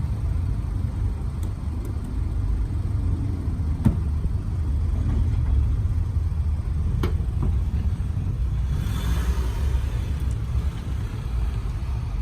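Steady low rumble of a car, with a few light clicks and a brief hiss about nine seconds in.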